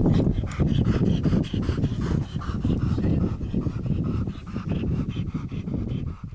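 A dog panting hard in quick, even breaths, about three to four a second, over a low rumble of wind on the microphone.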